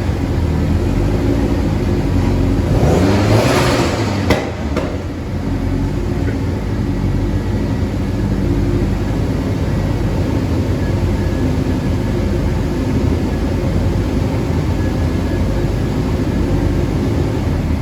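A car engine running steadily, with a rush of hiss swelling about three seconds in and a sharp click a little after four seconds.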